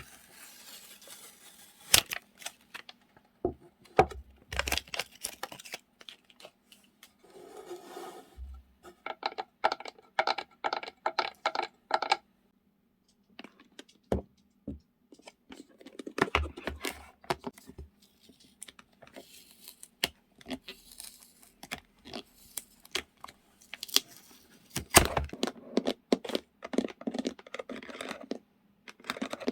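Paper and plastic-packed stickers and journaling supplies being handled and sorted into boxes: a string of small taps, clicks and crinkly rustles, with a short pause about twelve seconds in.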